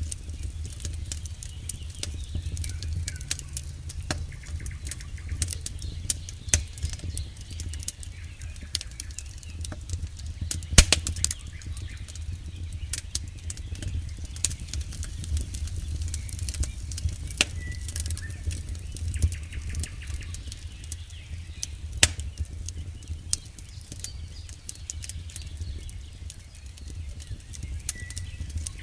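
Wood campfire crackling and popping: a steady scatter of sharp snaps, with two louder pops about eleven and twenty-two seconds in, over a low steady rumble.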